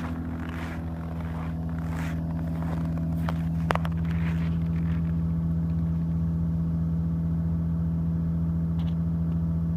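Toyota Crown JZS155's 3.0-litre 2JZ straight-six idling steadily, still warming up after a cold start at −25 °C. A single sharp click comes about four seconds in.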